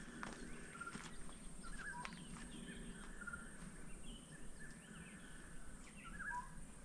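Faint bird calls: short chirps and whistles at irregular intervals, a few of them grouped about two seconds in and again near the end, over a quiet outdoor background with a few light clicks in the first second.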